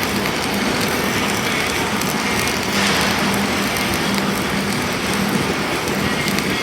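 Self-shielded flux-core arc welding: a steady crackle and sizzle of the arc, swelling brighter and hissier about three seconds in, with a faint hum that comes and goes.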